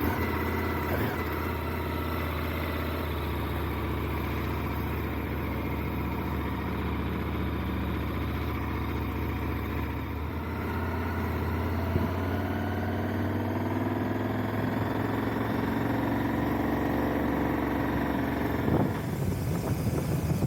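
KTM 1290 Super Adventure S motorcycle's V-twin engine idling steadily, then from about halfway through revving up with its pitch rising as the bike moves off.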